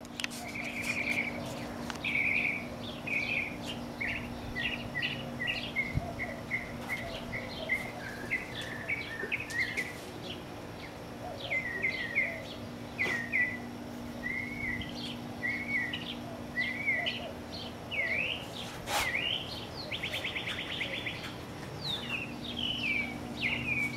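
Several backyard songbirds singing and chirping, with many short whistled notes and repeated phrases and a fast buzzy trill about 20 seconds in. A steady low hum runs underneath.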